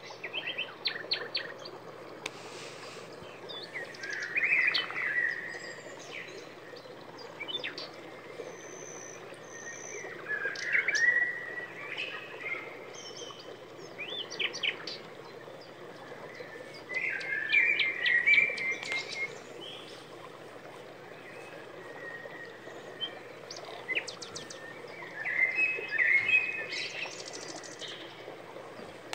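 Small birds chirping and singing in short trilling phrases, the loudest coming every six or seven seconds, over a steady background hiss.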